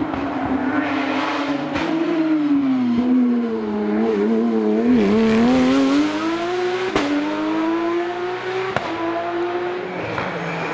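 Rally car engine running hard, its note falling to a low point about four to five seconds in and then climbing again as it pulls back up. Sharp cracks come at about two, seven and nine seconds in.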